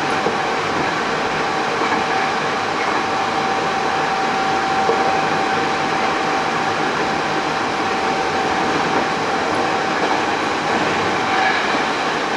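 Hankyu 8000 series electric train running at a steady speed, heard from inside the passenger car: a steady rumble of wheels on rail with a steady high whine over it. The train has Toshiba GTO-VVVF traction equipment.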